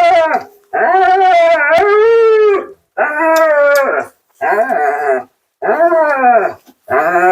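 Siberian husky 'talking': a series of about six drawn-out, howling woo-woo calls, each bending up and down in pitch, with short breaks between them. This is the husky's typical vocal protest while being groomed.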